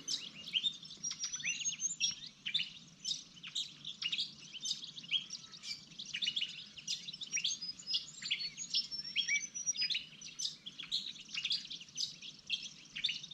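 Morning chorus of many songbirds: a dense, continuous tangle of quick chirps, trills and short whistled sweeps.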